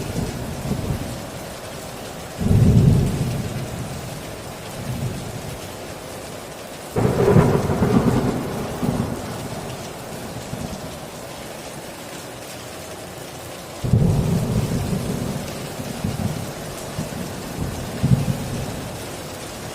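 Steady heavy rain with thunder: three sudden cracks of thunder, about two and a half, seven and fourteen seconds in, each rolling off into a long rumble.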